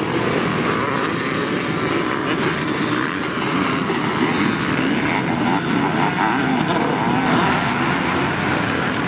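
Motocross bike engines running on the track, their pitch rising and falling as they rev through the gears.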